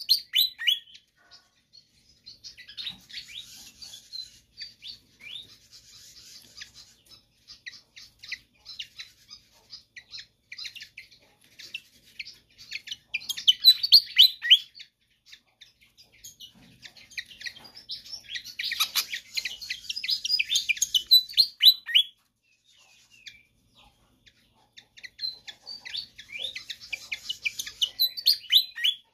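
Fantail (sikatan kipas) singing vigorously in repeated bouts of rapid, high, chittering notes, each bout a second or a few seconds long with short pauses between; the loudest bouts come about halfway through and again past two-thirds.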